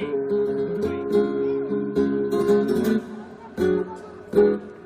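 Flamenco guitar playing strummed chords of a fandango accompaniment. About two-thirds of the way in it drops quieter, then two sharp strummed chords ring out.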